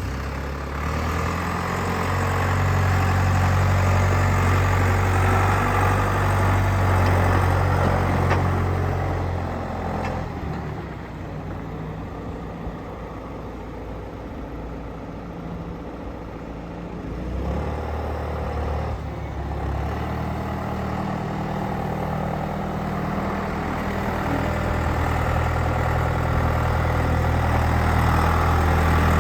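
John Deere 6415 tractor's diesel engine idling steadily. Its low hum drops for several seconds in the middle, then comes back up.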